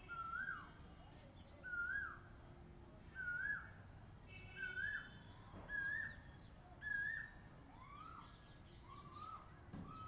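A cuckoo, an Asian koel, calling over and over: about nine rising, whistled notes roughly a second apart, the later ones shorter and more closely spaced. Fainter high chirps from another bird run alongside.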